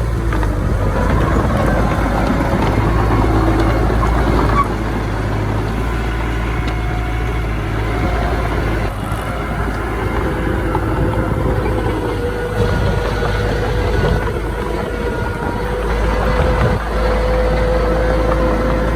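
Heavy diesel earth-moving machinery running steadily, with a continuous low engine hum.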